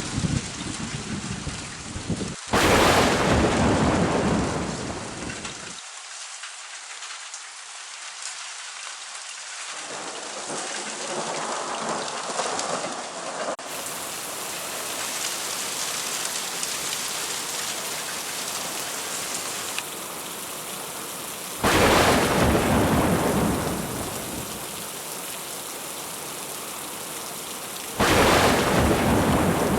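Thunderstorm: steady rain with three sudden thunder cracks, one a few seconds in and two more in the second half, each fading over a few seconds.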